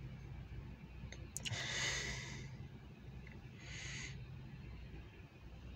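Two soft breaths close to the microphone, about a second and a half in and again near four seconds, over a steady low hum.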